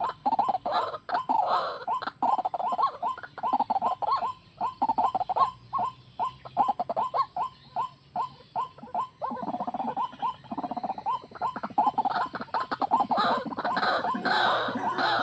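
White-breasted waterhen calling: a long run of short repeated notes, evenly spaced at about three a second in the middle, becoming a denser overlapping jumble in the last few seconds.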